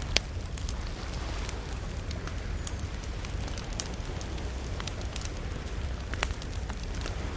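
Campfire crackling, with scattered sharp pops from the burning wood; the loudest pop comes just after the start and another strong one about six seconds in. Under the crackle runs a steady low rumble.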